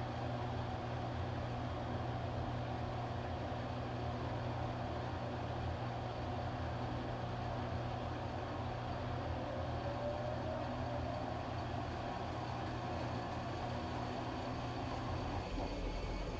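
Washing machine running with a steady low hum and churning noise, a faint rising whine showing partway through.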